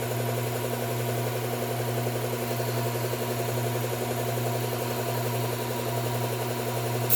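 Electric belt sharpener running steadily with its motor humming and the abrasive belt turning free. Right at the end, a blade meets the belt and a grinding hiss starts.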